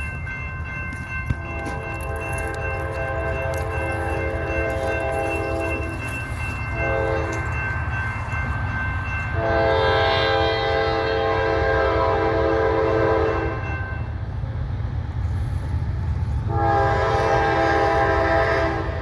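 CSX freight train's locomotive horn blowing in several blasts: a long one, a short one, then two more long ones, over the steady low rumble of the passing train.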